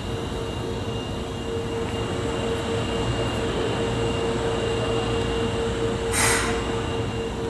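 Osaka Metro Tanimachi Line subway train standing at the platform, its equipment giving a steady hum with a held tone. A short hiss comes about six seconds in.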